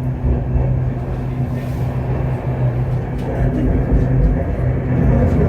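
Stoosbahn funicular car running, heard from inside the cabin: a steady low hum over a continuous rumble.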